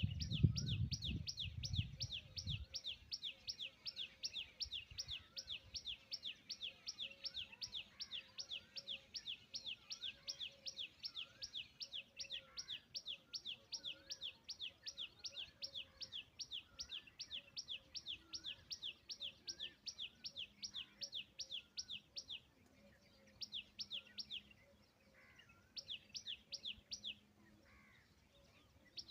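A bird calling a fast run of high, downward-sweeping notes, about three or four a second, that stops about 22 seconds in and then comes back in three short bursts. A low rumble is heard in the first two seconds.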